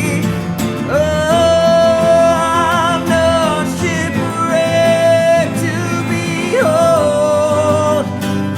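A country band playing, with guitar backing under a melody line of long held notes that slide up into pitch.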